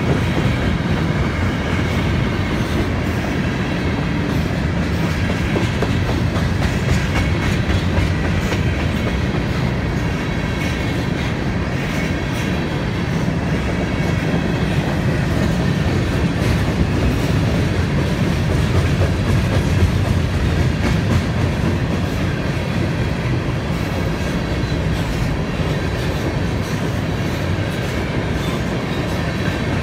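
Freight train of covered grain hopper cars rolling past at speed: a steady, loud rumble of wheels on rail with a continuous clatter as the wheels cross rail joints.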